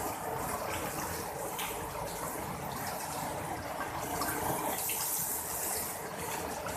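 Heavy rain pouring down, a dense steady rush that swells briefly about five seconds in.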